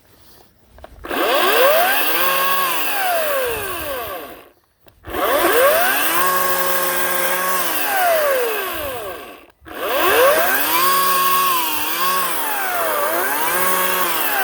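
Ryobi 18-inch electric chainsaw triggered three times. Each time the motor's whine rises to full speed, holds, then winds down. During the third run the pitch dips twice as the chain comes under load.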